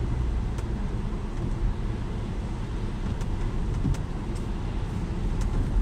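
Car in motion heard from inside the cabin: a steady low rumble of engine and tyres on the road, with a few faint, scattered clicks.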